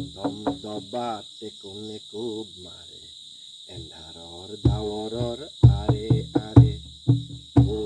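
Crickets trilling steadily in a constant high-pitched chorus, under a song with melodic singing. The song drops away for a moment mid-way and comes back with drum beats.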